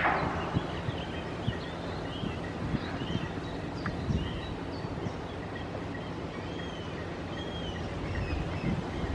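Small birds chirping and twittering in short calls over the low, steady hum of the inland cargo ship's engine, with wind rumbling on the microphone.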